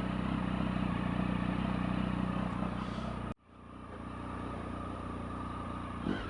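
Triumph Tiger 1050 Sport's three-cylinder engine running steadily through a newly fitted SC-Project exhaust. About halfway through the sound cuts out abruptly, then returns quieter and steady.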